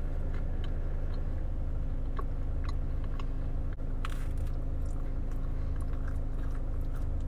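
Biting into and chewing avocado toast on crisp toasted bread: small crunches and mouth clicks, with a louder crunch about four seconds in. A steady low hum runs underneath inside the car.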